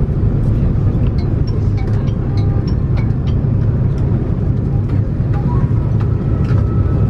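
Steady low rumble inside an Airbus A330-300's cabin as it taxis after landing: idling jet engines, rolling and cabin air together. Faint scattered clicks are heard in it.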